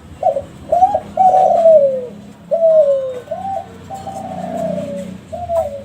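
Kelantan-strain spotted dove (tekukur) cooing. It gives a phrase of short clipped notes and long coos that slide down in pitch, and ends with another short note near the end.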